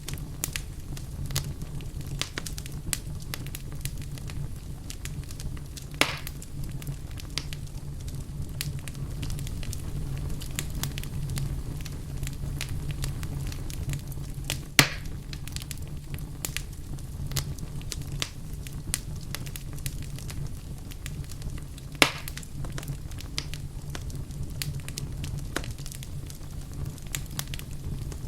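Wood fire burning in a fireplace: a steady low rumble of flames under frequent small crackles, with three louder sharp pops spaced several seconds apart.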